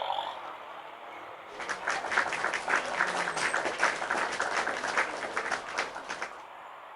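Bicycle freewheel ticking rapidly while the rider coasts. It starts about a second and a half in and stops abruptly near the end, when pedalling resumes.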